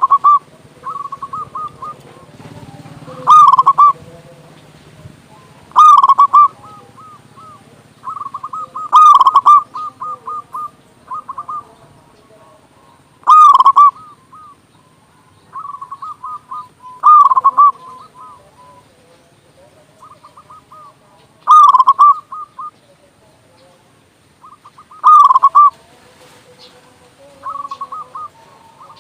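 Zebra dove (perkutut) singing: a loud, deep cooing phrase repeated about every three to four seconds, with softer quick rolling notes between the phrases.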